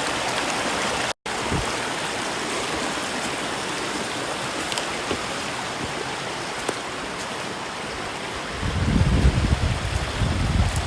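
A stream running steadily, a constant rushing water noise. Near the end, irregular low wind buffeting on the microphone joins in.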